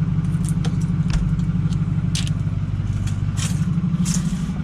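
A vehicle engine idles with a steady low hum. Scattered short clicks and scrapes of objects being handled sound over it.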